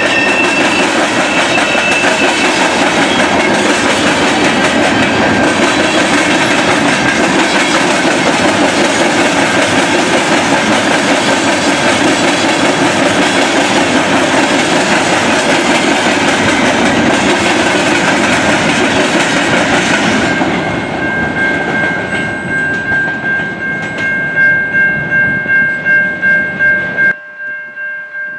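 A train passing close by, its wheels clattering loudly and steadily over the rails. About two-thirds of the way through, the rolling noise fades, leaving a steady high ringing tone that pulses about twice a second, then the sound drops away suddenly near the end.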